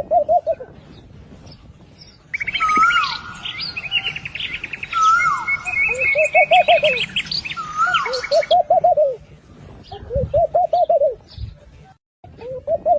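Birdsong: a dove cooing in short, low, wavering phrases, repeated about five times, joined for about six seconds in the middle by a dense chorus of high chirps, fast trills and swooping whistles from other birds.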